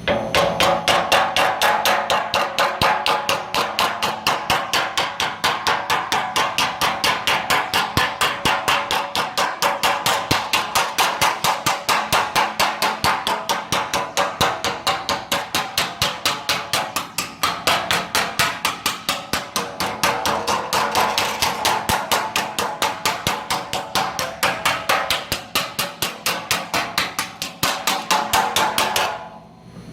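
Rapid, steady hammer blows on sheet metal, about four a second, with a short pause about two-thirds of the way through: a metal panel for an aircraft engine cowling being hand-shaped and shrunk by hammering.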